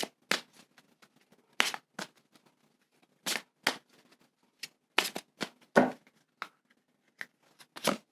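A tarot deck being shuffled and cards drawn: irregular short, crisp snaps and flicks of card stock.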